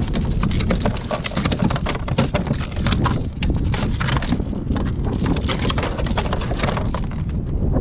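A fast, irregular run of knocks and splashes that stops shortly before the end, over wind rumbling on the microphone.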